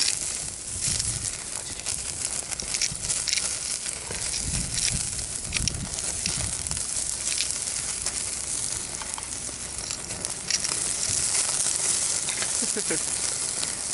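Meat sizzling on a grill over a wood fire, with scattered sharp crackles; the sizzling gets louder about ten seconds in.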